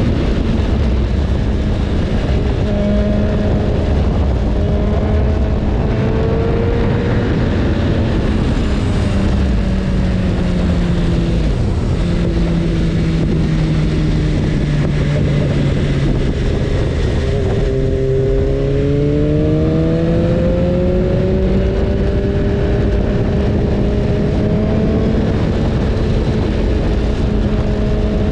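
BMW S1000RR's inline-four engine running under way, its note sinking about twelve seconds in, then rising again with the throttle a few seconds later, over a steady rush of wind and road noise.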